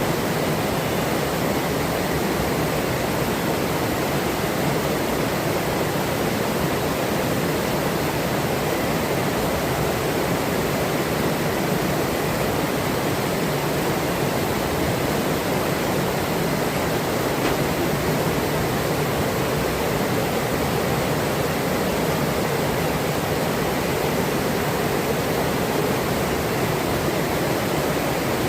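Forest river running steadily, a continuous rush of flowing water.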